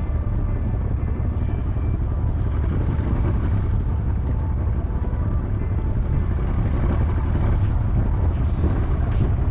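Old Yamaha outboard motor running steadily at low speed while towing a yacht, a constant low drone.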